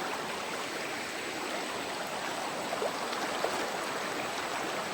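Rocky jungle river rushing steadily over stones, with a couple of faint ticks about three seconds in.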